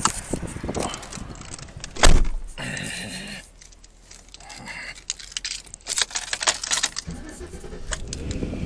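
Keys jangling and rattling among a run of clicks and knocks, with one loud thump about two seconds in.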